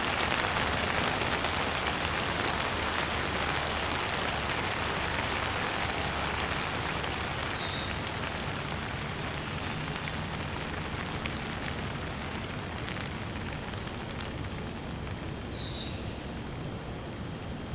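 Steady rain falling, a dense even hiss of drops that eases a little toward the end.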